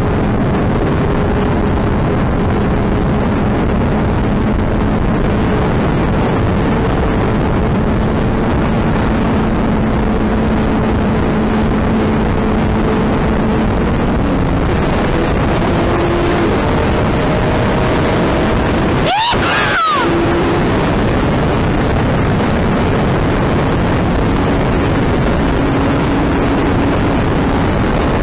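Suzuki Hayabusa's inline-four engine running at a steady cruise while the bike is ridden, its note drifting slightly up and down, under heavy wind noise on the microphone. About nineteen seconds in the sound breaks briefly with a quick sweep in pitch.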